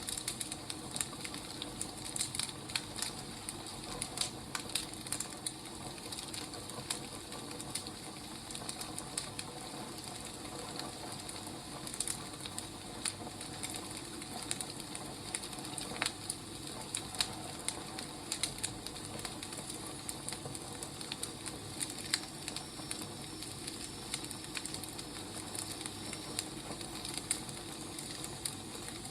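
Firewood burning, crackling steadily with irregular snaps and pops over a soft hiss.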